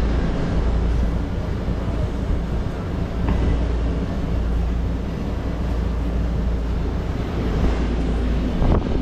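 Steady low machine drone from a food truck's running equipment, holding at one level, with a couple of faint knocks, one about three seconds in and one near the end.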